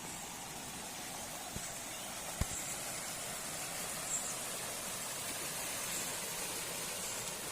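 Flowing stream water rushing steadily, with a couple of faint knocks a second or two in.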